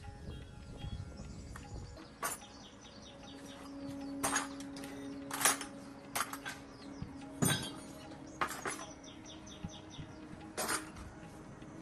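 Metal parts and hand tools clinking and tapping: about nine sharp, irregular metallic knocks, with a faint steady hum under them through the middle.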